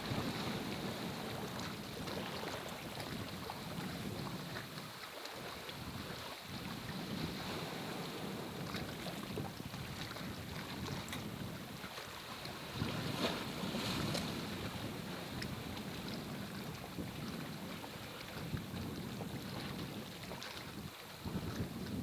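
Gusty wind buffeting the microphone in low, uneven swells over a steady hiss of heavy rain.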